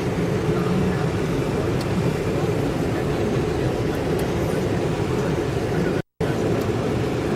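Steady engine noise with a low rumble, cutting out to silence for a moment about six seconds in.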